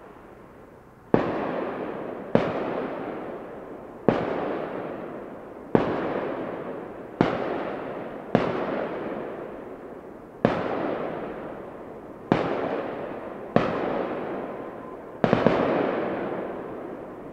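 Neighbourhood fireworks: about ten loud bangs, one every second or two, each trailing off in a long echoing rumble, the last a quick double crack.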